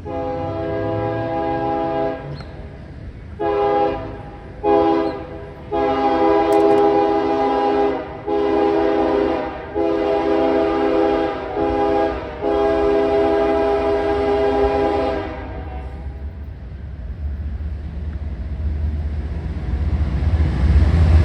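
CSX intermodal train's locomotive horn sounding a multi-tone chord in a string of long and short blasts. After the horn stops, the low rumble of the approaching train grows steadily louder.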